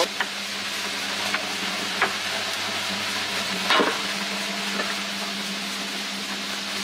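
Tyre-shop work noise: a steady hum with a hissing, scraping texture, broken by a few sharp clicks or knocks, the loudest nearly four seconds in.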